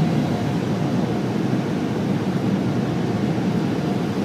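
Automatic car wash at work: a steady, even rumble of machinery noise.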